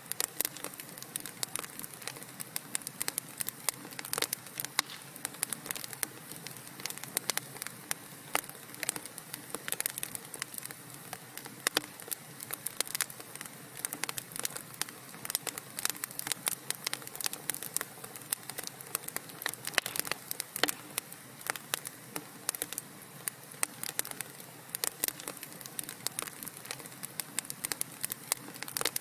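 Wood fire burning in a fireplace: dense, irregular crackling and popping over a soft steady hiss.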